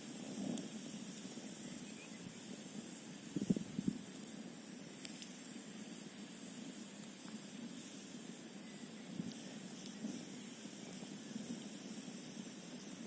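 Campfire burning over a steady hiss, with a few scattered crackles and a short cluster of pops about three and a half seconds in.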